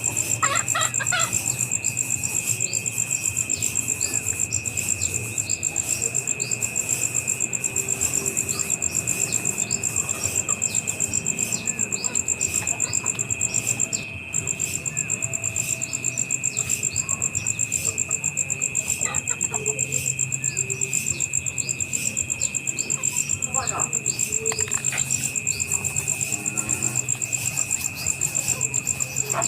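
Insects trilling in a steady, high, fast-pulsing chorus that breaks off briefly about halfway through, with a few short bird calls now and then.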